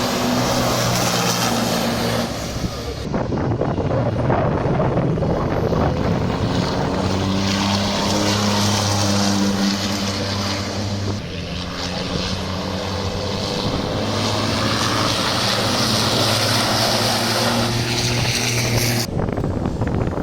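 Race trucks' engines running loud on the circuit, a steady engine note with several tones, cut abruptly about 2–3 seconds in and again near the end.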